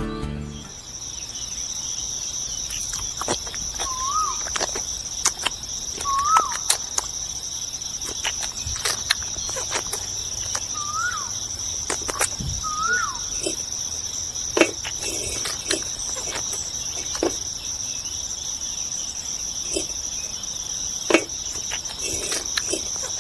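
Steady high-pitched insect trilling, with a short up-and-down call four times and scattered sharp clicks.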